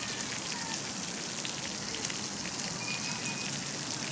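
Water splashing and trickling steadily at a bird bath, with a few brief high calls over it.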